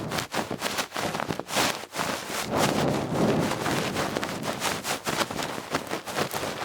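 A feather-tipped ear pick brushing and scratching inside an ear, close to the microphone. It makes dense, irregular rustling strokes one after another.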